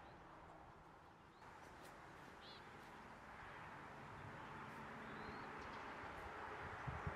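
Quiet outdoor ambience: a steady faint hiss with a few faint bird chirps, one about two and a half seconds in and another near four seconds. A couple of soft low thumps come near the end.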